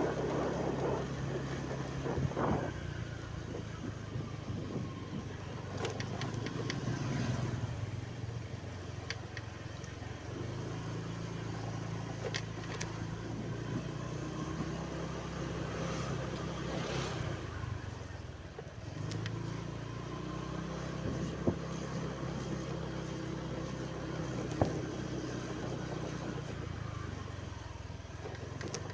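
A motor vehicle's engine running steadily with road noise, easing briefly and picking up again, with two sharp clicks in the later part.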